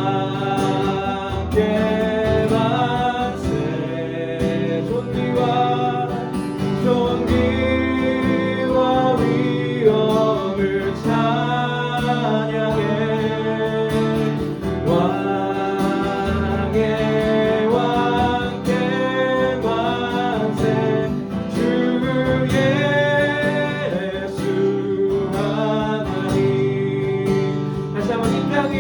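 Korean worship song: voices singing a slow melody over a strummed acoustic guitar.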